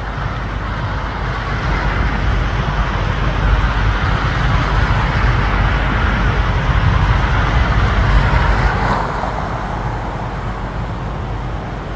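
Steady roar of a large waterfall pouring over a dam, swelling slowly and easing a little near the end.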